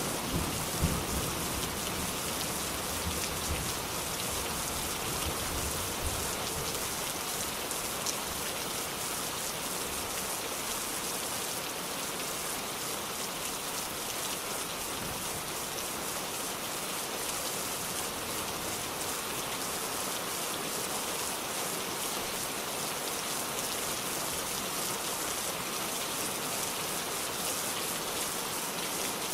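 Steady rain falling on surfaces, with the tail of a low thunder rumble fading out in the first few seconds.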